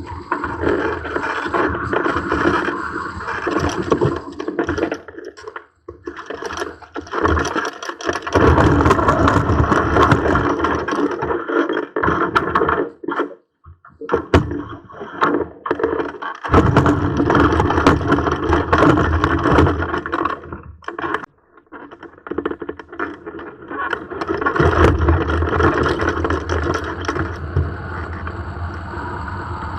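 Strong gusty wind blowing across the microphone, a dense rushing noise that comes in long gusts and drops off sharply a few times.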